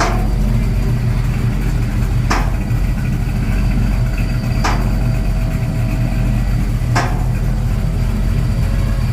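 A vehicle engine idling steadily with a deep exhaust drone. A sharp knock comes at an even beat about every two and a third seconds.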